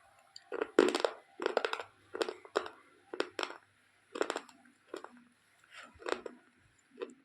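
Slate pencils being bitten and chewed close to the microphone: a run of sharp, crisp crunches, irregular, roughly one to two a second.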